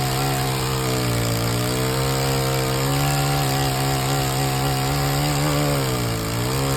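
Gas pole saw engine running at high revs, its pitch wavering slightly and dipping briefly about six seconds in before picking back up.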